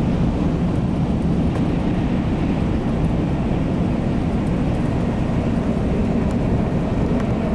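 Shinkansen bullet train running at speed, heard from inside the passenger cabin: a steady, unbroken rumble and hiss of the ride.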